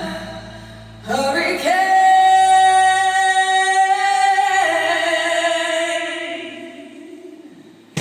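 Male and female voices singing a long held harmony over a steady low note. It swells in about a second in, shifts partway through, then fades away near the end.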